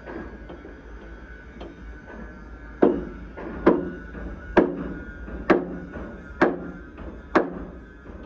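Hammer blows on metal. A few light taps, then six heavy strikes with a ringing tail, about one a second, starting about three seconds in.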